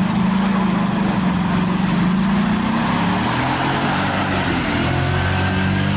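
A motor vehicle's engine running steadily, its pitch sagging slightly partway through and shifting again near the end.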